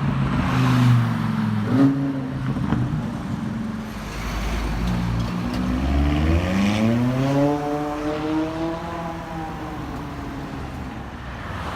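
A car engine revving and accelerating: a short blip in the first two seconds, then a long rise in pitch from about four seconds in that levels off and eases away.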